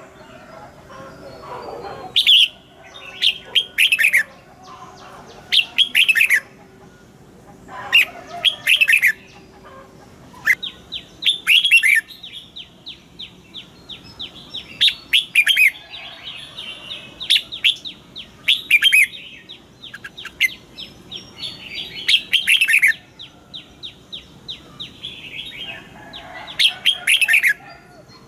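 Red-whiskered bulbul singing: short phrases of quick falling whistled notes every second or two, and from about ten seconds in, long runs of rapid chattering notes.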